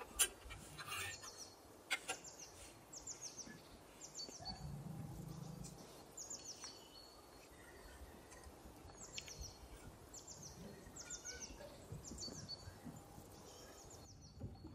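Small bird chirping over and over: quick groups of two or three high, falling notes about once a second, stopping shortly before the end. A few sharp clicks, the loudest right at the start, come from handling the marinated chicken on its metal skewer.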